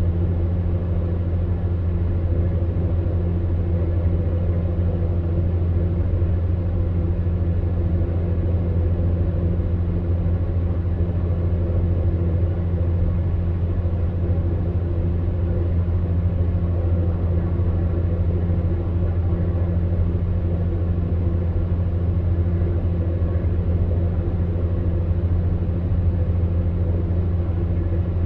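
Electric fan heater running steadily: a deep, even hum from the fan motor with a few steady tones above it, over a soft rush of blown air.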